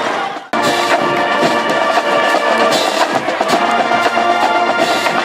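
Brass band with drums playing: held brass chords over a steady drum beat, starting abruptly about half a second in.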